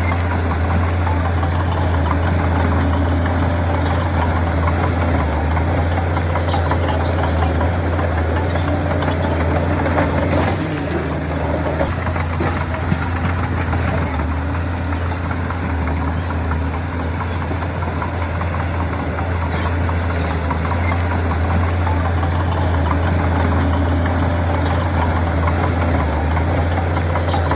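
Heavy diesel engine of earthmoving machinery running steadily with a deep, even hum, easing slightly about ten seconds in; a single sharp click sounds about thirteen seconds in.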